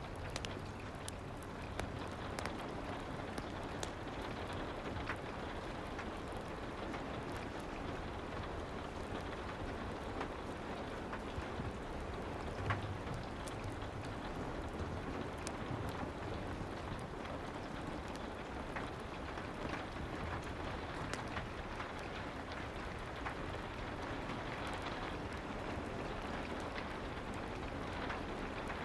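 Steady soft rain with scattered small crackles and pops from a wood fire, one louder pop about thirteen seconds in.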